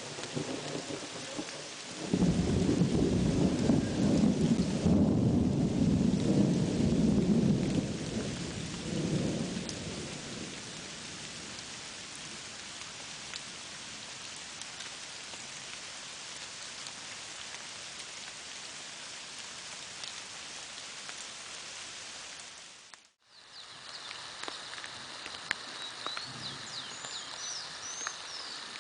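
Steady rain with a loud roll of thunder starting about two seconds in, rumbling for several seconds and then fading away. Near the end, after a brief dropout, the rain goes on with birds chirping.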